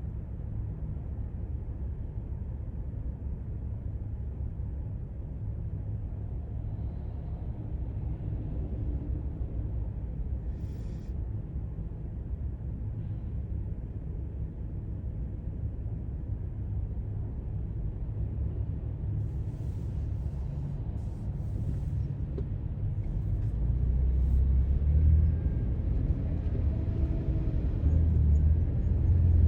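Steady low rumble of a car being driven, heard from inside the cabin: road and engine noise, growing louder over the last few seconds.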